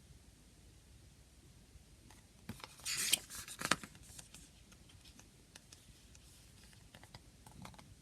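Hands handling a CD case and its packaging. A brief rustling scrape comes about three seconds in, then a sharp click, with scattered light clicks and taps around them.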